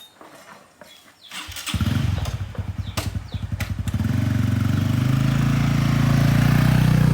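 Small motorcycle engine started about one and a half seconds in: it catches with a fast pulsing beat, then settles into a steady, loud run. A few light knocks come before it starts.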